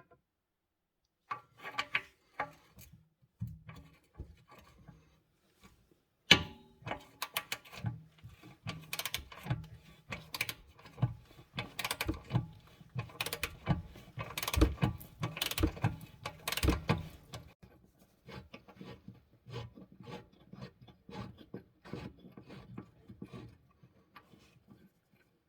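Ratchet wrench clicking in rapid strokes with occasional metal knocks, as bolts are turned during rear shock absorber work.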